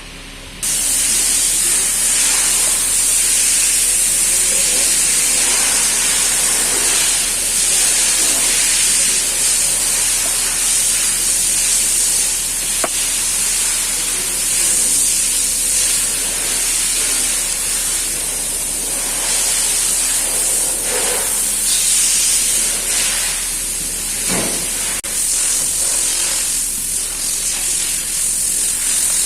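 Loud, steady hissing noise that starts abruptly just after the start, with a few faint clicks in it.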